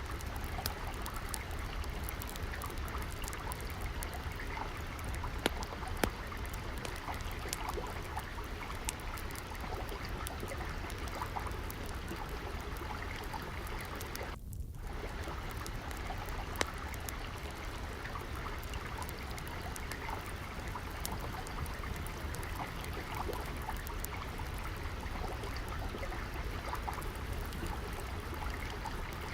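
Gently flowing, trickling water mixed with a crackling wood fire, its small sharp pops scattered irregularly over the steady water sound. The water sound drops out for a split second about halfway through.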